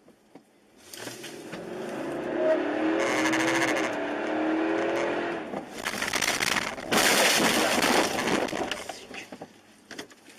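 A car's tyres squealing over road and engine noise, then a sudden loud noisy burst about seven seconds in, as in a collision.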